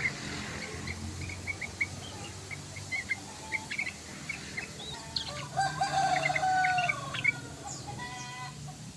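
Yellow-vented bulbul (trucukan) calling in a string of short, quick chirps. About halfway through, a rooster crows once, briefly louder than the chirps.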